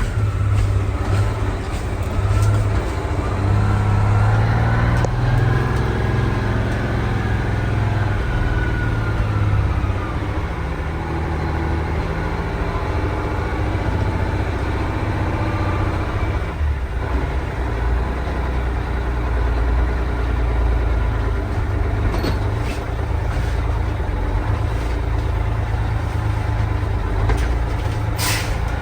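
Detroit Diesel 6V92 turbo two-stroke V6 diesel running after a cold start. Its pitch rises and falls through the first several seconds, then it settles to a steady idle. A brief sharp noise comes near the end.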